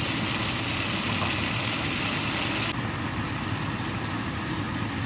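Prawns and onion-tomato masala sizzling and frying in a pan: a steady frying hiss. The high part of the hiss drops off abruptly about halfway through.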